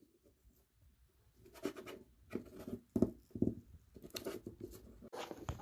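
Handling noise: irregular scratching and light rubbing of hands moving small objects close to the microphone. It begins after about a second and a half of near silence.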